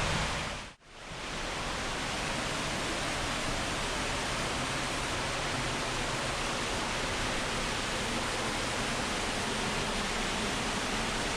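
Steady rush of falling water from a waterfall. It drops out briefly just under a second in, then comes back and holds even.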